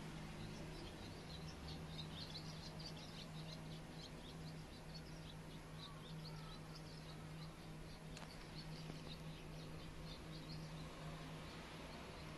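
Faint, rapid high chirping of small birds, many short calls in quick succession, over a steady low hum.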